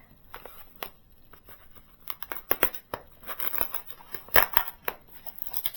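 Plastic packaging of a parts packet being opened: a run of sharp crinkles, clicks and snips, sparse at first and then busier and louder from about two seconds in.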